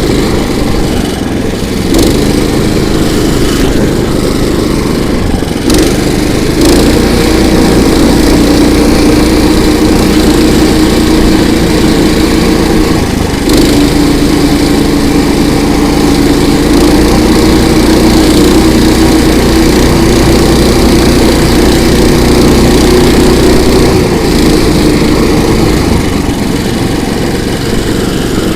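Small petrol engine of a KOiRA all-season motorized track tow running steadily under load. Its note grows stronger about six seconds in, dips briefly around the middle, and settles back lower near the end.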